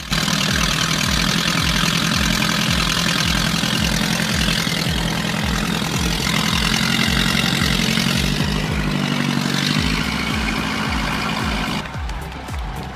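Diesel tractor engine running steadily under load.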